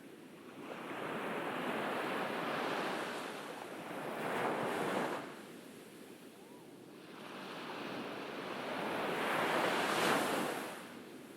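Ocean waves breaking on a beach: two waves in turn, each building up to a peak of surf noise and then washing away.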